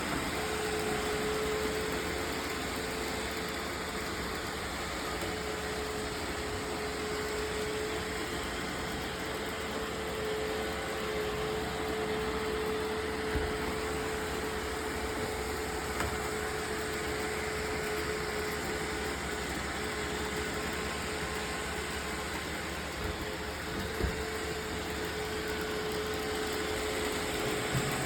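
Roomba robot vacuum running: a steady whir with a constant hum, and a couple of faint knocks.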